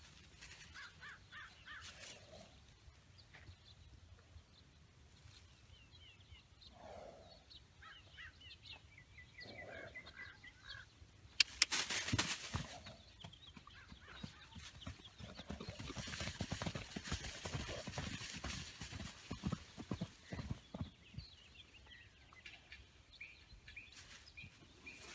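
Outdoor ambience of birds chirping and calling, with a crow-like caw, broken midway by a sharp click and several seconds of rapid, irregular knocks and rustling.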